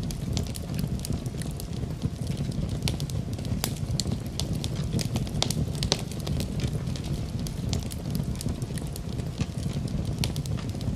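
Wood fire crackling in a fireplace: frequent irregular sharp pops and snaps over a steady low rush of burning flames.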